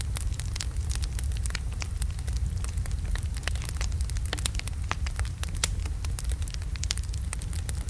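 Wood fire with large logs burning, crackling with frequent sharp irregular pops over a steady low rumble of the flames.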